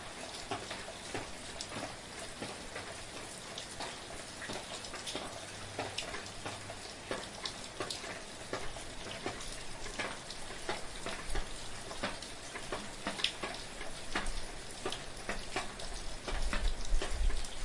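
Steady soft rain, with many separate drops ticking and pattering over a continuous hiss. A deep low rumble swells in during the last second or two.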